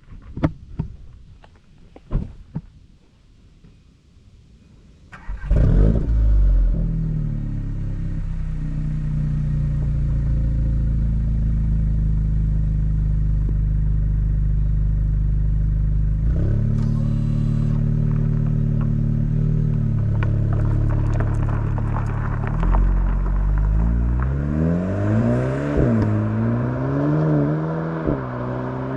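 A few clicks, then the 2025 VW Golf GTI Clubsport's turbocharged 2.0-litre four-cylinder engine starts about five seconds in with a loud flare and settles into a steady idle. Partway through, the idle steps up to a higher steady speed for several seconds and drops back. Near the end the revs rise and fall as the car pulls away.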